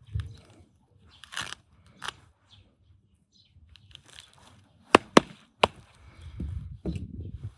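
Scattered knocks and handling sounds, with three sharp clicks about five seconds in and a run of low thumps near the end.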